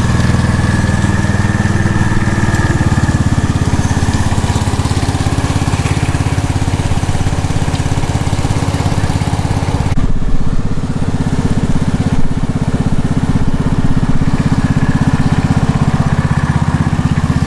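Tractor engine running steadily while pulling a drag across a baseball infield.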